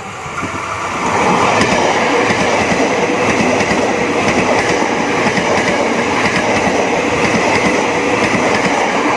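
Train passing fast and close: the sound swells over the first second or so, then runs steady and loud with the clatter of wheels over the rails and a held high tone above it.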